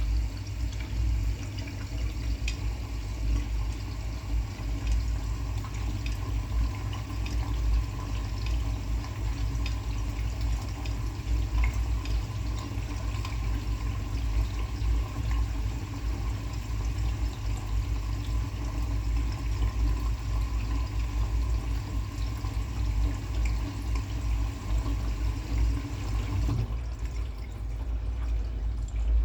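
Washing machine taking in water and sloshing it through the load. The sound lightens about three seconds before the end.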